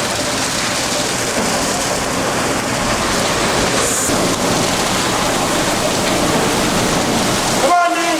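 Automatic car wash spraying water over an SUV: a steady, loud rush of water jets.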